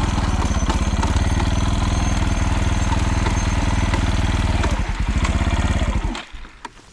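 Motorcycle engine running with an even beat, then switched off about six seconds in.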